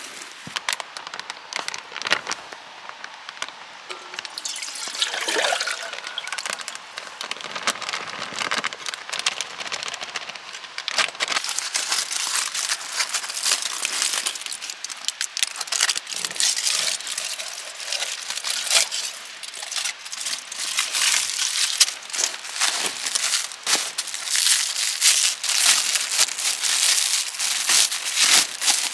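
Wood fire crackling and snapping in a fire pit, the crackles growing denser and louder as it goes.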